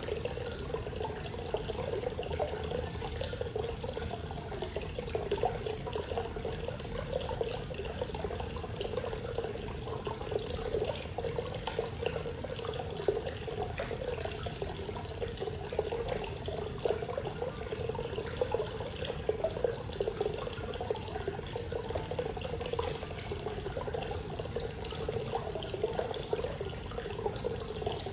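Hot-spring water pouring steadily into a bath, a continuous splashing flow.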